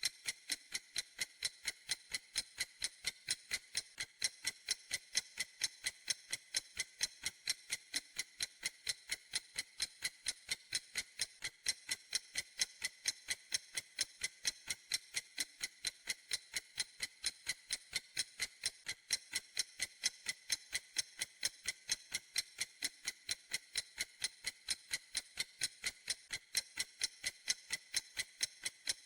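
Clock ticking in a steady, even rhythm of a few crisp, high ticks a second, each tick the same.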